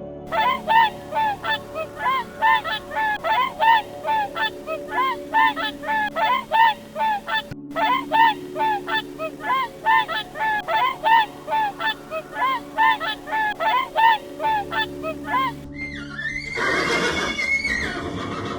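A fast series of honking bird calls, about three or four a second, each rising then falling in pitch, over a steady low droning tone. A louder, harsher call comes near the end.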